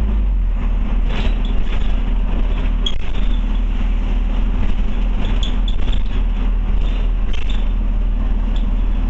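Scania OmniCity single-decker bus heard from inside the passenger cabin: a steady low engine drone and road noise, with light rattles and clicks from the interior fittings.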